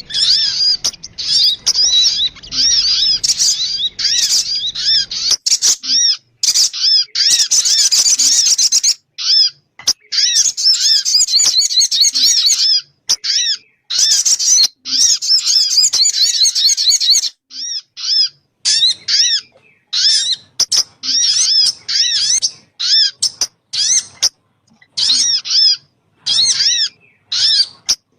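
Sogun bird lure-call recording: rapid runs of short arched, high notes, several a second, in bursts separated by short breaks.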